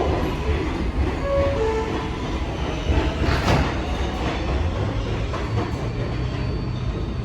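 R188 subway train pulling out along the elevated track: a steady rumble of the cars with wheels clattering over the rail, a few short tones about a second and a half in, and a louder clatter about three and a half seconds in.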